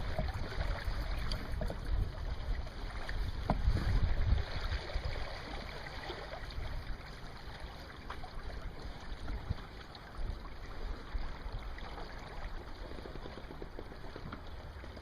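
Wind rumbling on the microphone out on open water, gusting harder in the first few seconds and easing off after about five seconds, with a faint hiss and a couple of light knocks.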